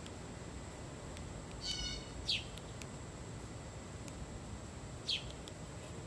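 Backyard songbirds calling over a steady outdoor background: a brief nasal note with several overtones, then two short chirps that each slide down in pitch, one right after it and one near the end.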